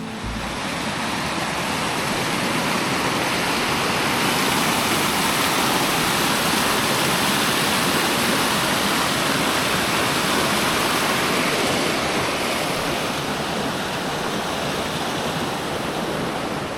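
Rushing water of a stream running over rocks: a steady, even rush.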